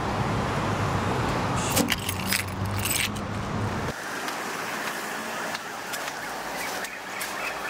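Steady low hum of an idling car engine, with a short spell of metallic jingling clicks partway through. About four seconds in the hum cuts off abruptly, leaving quieter street ambience with a few light clicks.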